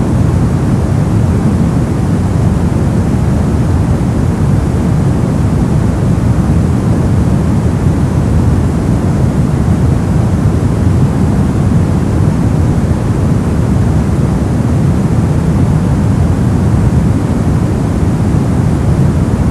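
Synthetic brown noise: a steady, loud, deep rumbling hiss with most of its energy in the low range, unchanging throughout.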